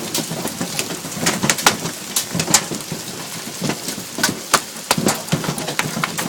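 Heavy hail with rain, stones striking hard surfaces in a fast irregular patter of sharp hits over a steady hiss.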